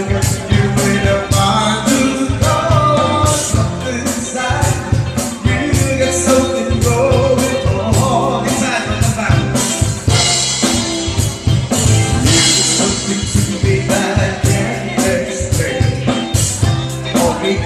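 A live cover band playing, with a drum kit keeping a steady beat under bass and a singing voice.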